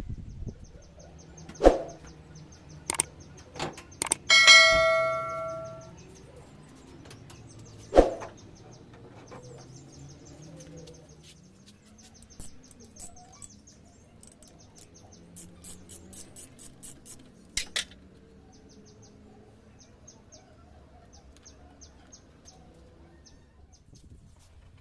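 Metal hand tools clicking and knocking against metal parts, with one tool striking or dropping and ringing out about four seconds in. Later comes a run of quick ticks and clicks.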